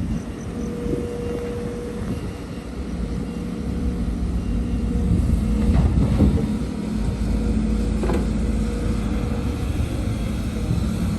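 Heavy diesel earthmoving machinery running steadily, with a few knocks around the middle and again about eight seconds in.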